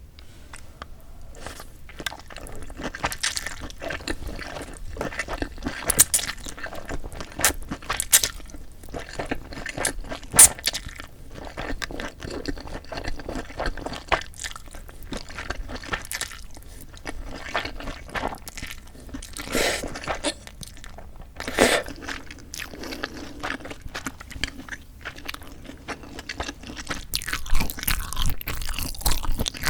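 Close-miked eating sounds of spicy bibim noodles with sea snails: irregular chewing and crunching with sharp, wet mouth clicks, a few louder bites standing out.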